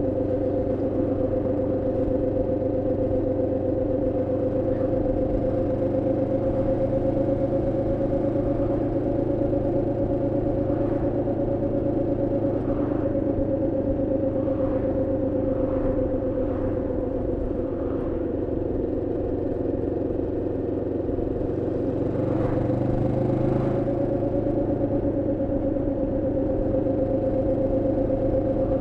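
Moto Morini X-Cape 649's parallel-twin engine running steadily under way, at the moderate revs of its break-in period. The engine note eases slightly about two-thirds through, then picks up again.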